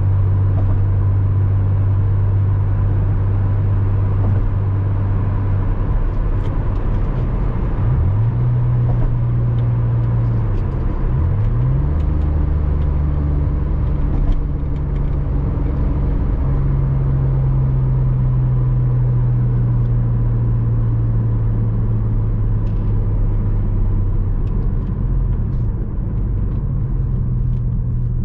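Porsche Boxster 986's flat-six engine running steadily under way. The engine note dips and climbs quickly twice, around eight and eleven seconds in.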